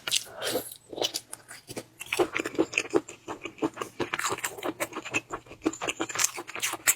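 A person chewing and biting crunchy food close to the microphone: many quick, irregular crunches and wet mouth clicks.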